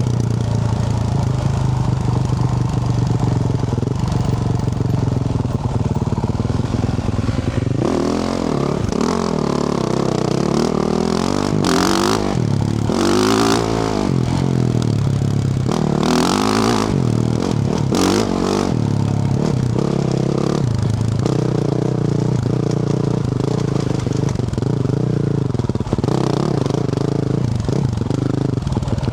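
2024 Yamaha YZ450F's single-cylinder four-stroke engine through a Yoshimura RS-12 exhaust, riding along: steady at first, then revving up and down repeatedly through the middle, with several short bursts of rushing noise, and settling back to a steady pace near the end.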